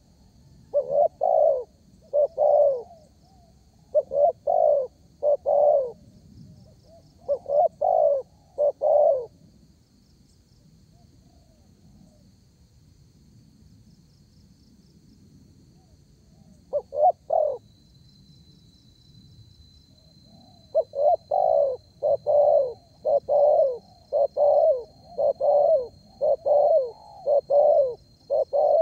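Spotted dove (derkuku) cooing: three phrases of three low coos each, a pause of several seconds, a short pair of notes, then a long run of about a dozen coos near the end.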